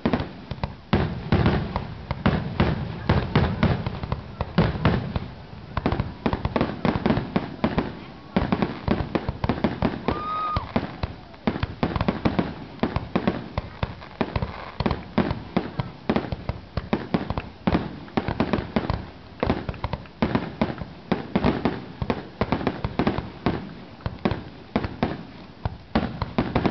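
Fireworks finale: aerial shells bursting in a dense, rapid barrage of sharp bangs, several a second and overlapping, with heavier booms in the first few seconds.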